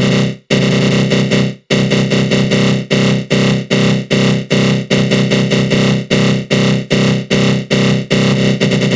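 Synthesized 'attack growl' sound effect: a dense synth tone from the GMS synth in FL Studio Mobile, run through a flanger. It drops out briefly twice, then pulses in quick stabs about two and a half a second, which turn faster and shorter near the end.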